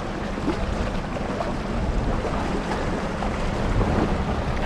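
Steady engine drone with wind buffeting the microphone.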